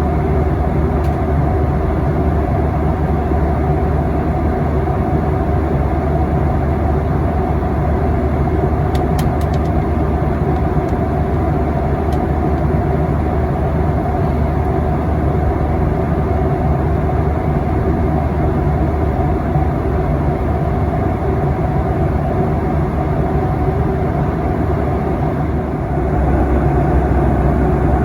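Steady cabin noise of a Boeing 737-800 in flight: the constant drone of its CFM56 turbofan engines and airflow, with a strong low hum. The noise steps up louder about two seconds before the end.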